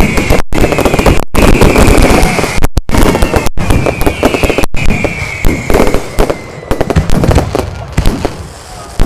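Fireworks going off in quick succession: dense crackling and bangs, with a high whistle slowly falling in pitch. The crackling thins out over the last few seconds.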